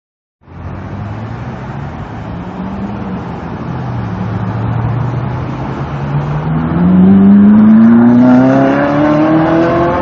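A car engine running, then accelerating, its pitch rising steadily over the last few seconds.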